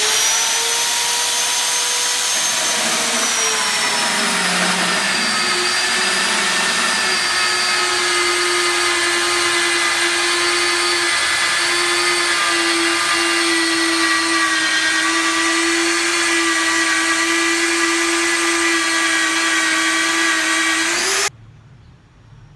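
Dongcheng DJC30 magnetic drill running with a carbide-tipped annular cutter, a steady motor whine. Its pitch drops a little a few seconds in, then holds steady until it cuts off suddenly about 21 seconds in.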